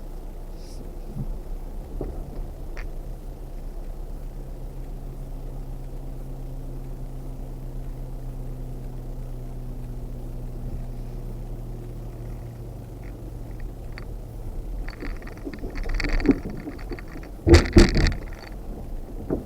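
Off-road vehicle's engine running at a steady low hum while crawling along a trail. Near the end it turns to rattling, with a few loud knocks.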